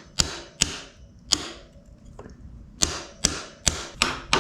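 Hammer blows on metal, driving out a stuck bolt to free a motorcycle's front wheel: about eight sharp strikes, three, then a pause of over a second, then five in quicker succession.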